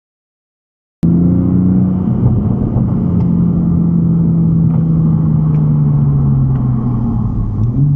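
A vehicle engine, heard after a second of dead silence, running loud and steady with its pitch slowly falling, then rising briefly near the end.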